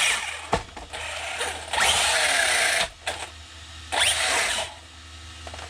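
Electric drive of a ZD Racing DBX-07 RC truck, brushless motor and drivetrain, whirring in three short throttle bursts. Each burst opens with a rising whine, the middle one lasting about a second.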